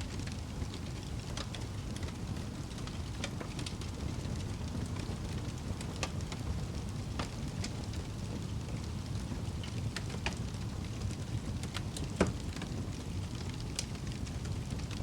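Wood fire burning in a fireplace: a steady low rumble of flame with scattered crackles and pops, one louder pop about twelve seconds in.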